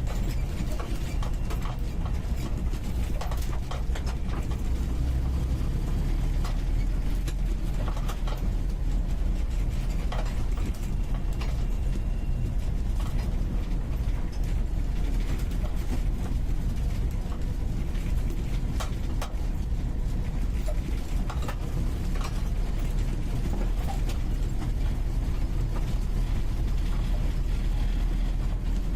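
UAZ 469B's four-cylinder petrol engine running steadily under way, heard from inside the cabin, with frequent short rattles and knocks from the body.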